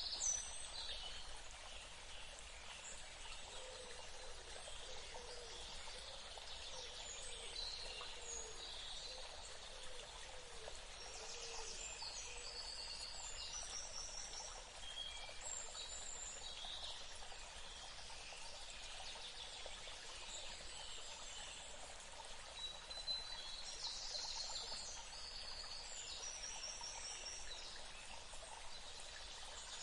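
Forest birds calling in many short, high chirps and trills over a steady rushing background hiss. The calls are busiest near the start and again in the last third.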